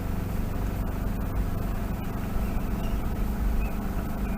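Car driving slowly, a steady low engine drone with faint road noise heard from inside the cabin.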